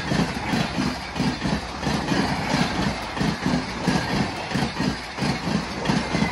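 Express train's passenger coaches passing close at speed, the wheelsets beating out a fast, even clickety-clack over the rail joints, several beats a second, above a steady rushing rumble of wheels on rail.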